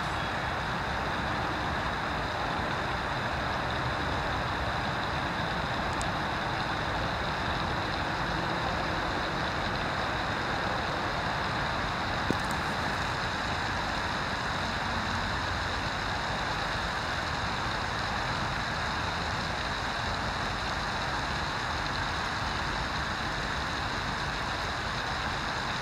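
Steady, unchanging background noise with no distinct events, broken only by a single brief click about halfway through.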